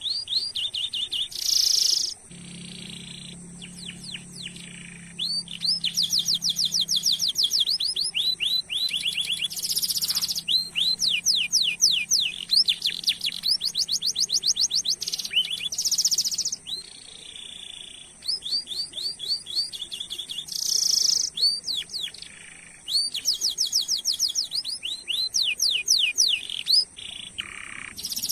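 Domestic canary singing a long, varied song: fast trills of rapidly repeated down-sweeping chirps, broken by short buzzy rolls and brief pauses, going on without a break of more than a second.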